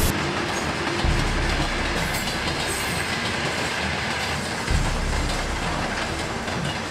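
A train rolling past: a steady rumbling noise with the low rumble of the wagons.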